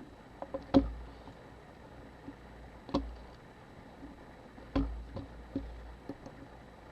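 Scattered light clicks and taps from a camera body and small tools being handled on a workbench. The sharpest knocks come a little under a second in and near five seconds.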